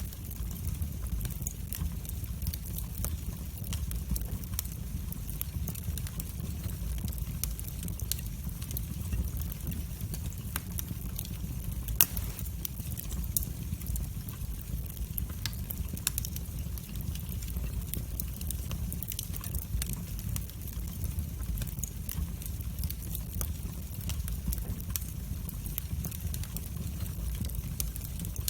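Wood fire burning in a fireplace: a steady low rumble of flames with frequent small crackles and pops, and one sharper snap near the middle.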